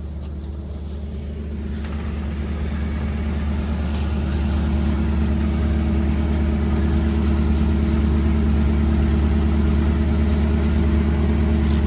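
Farm tractor engine running steadily, growing louder over the first four seconds or so and then holding at an even level.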